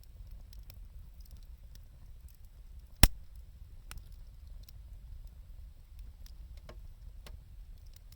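Wood fire crackling, with scattered faint snaps and one loud sharp pop about three seconds in, over a steady low rumble.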